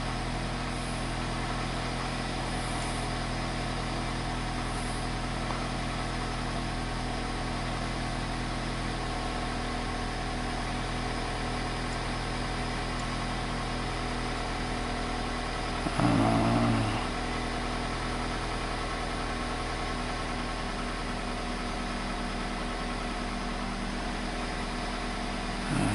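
2002 Toyota Corolla's four-cylinder engine idling steadily, heard from inside the car's cabin.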